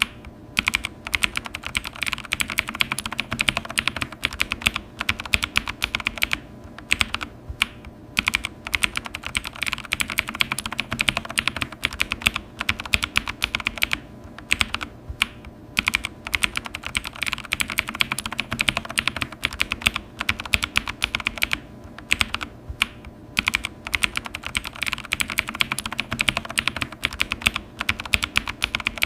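Computer keyboard being typed on quickly and continuously, a fast stream of key clicks broken by short pauses every few seconds.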